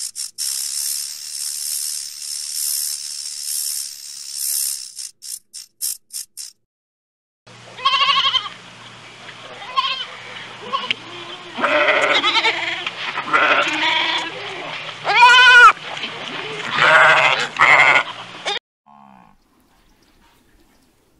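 A sidewinder rattlesnake's rattle buzzing for about six seconds, breaking into short stutters before it stops. Then goats bleating, a string of wavering, overlapping calls, the loudest a little past halfway.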